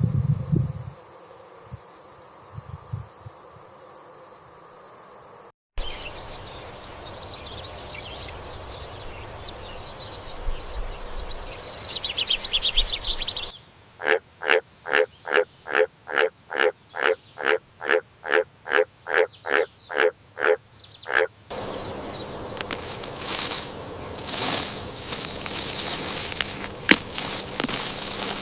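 Frog croaking in a steady series, about two croaks a second, for roughly eight seconds in the middle, set among short spliced stretches of outdoor nature ambience with a brief high trill.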